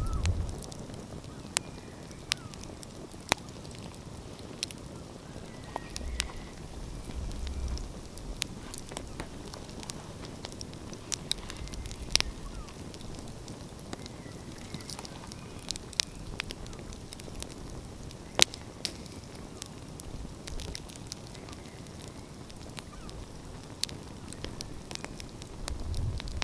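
Wood fire crackling, with sharp pops every second or so over a steady low rush. One pop about two-thirds of the way through is louder than the rest.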